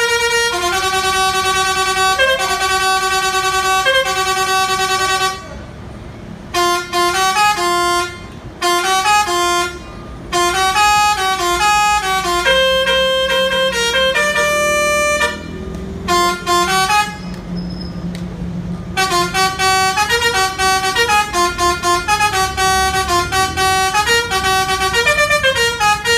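Vehicle musical horn playing a tune: loud, buzzy held notes at first, then runs of shorter notes stepping up and down in pitch, broken by a few short pauses.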